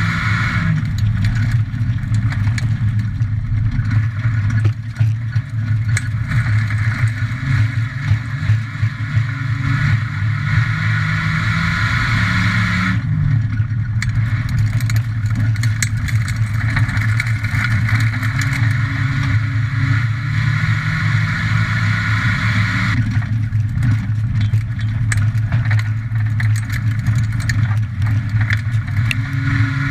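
Ford Falcon XR6's straight-six engine running at racing speed, heard from inside the stripped, caged cabin. Its steady note drops away briefly about 13 seconds in and again around 23 seconds in, then picks up again.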